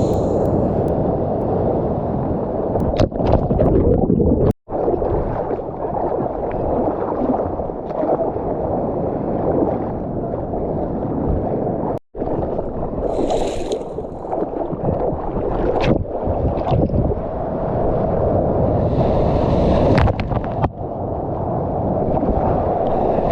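Water and wind rushing over the microphone of a GoPro carried while surfing, a steady low-pitched wash with scattered knocks and splashes. The sound drops out abruptly twice.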